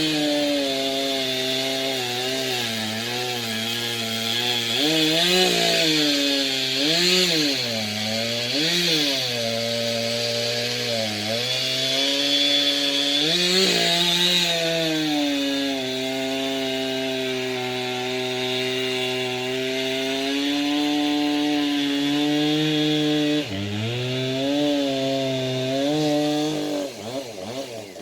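Two-stroke chainsaw cutting through logs, its engine pitch repeatedly dipping under load and rising again as the throttle is worked, with a hiss of the chain in the wood.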